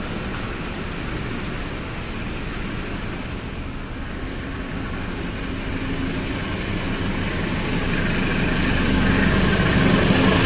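Train approaching, its running noise growing steadily louder over the second half.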